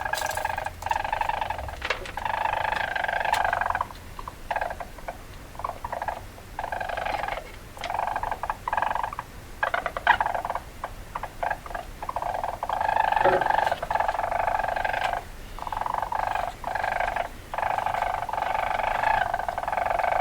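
Weasel chattering: rapid trilling calls in bursts of about half a second to two seconds, repeated over and over with short gaps.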